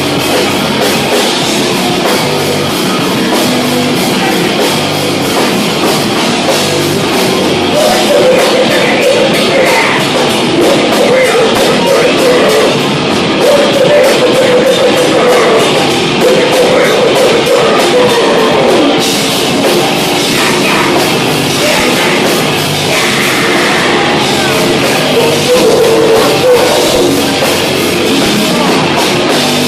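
A heavy metal band playing live and loud, with dense, rapid drumming, distorted guitars and a shouted vocal line.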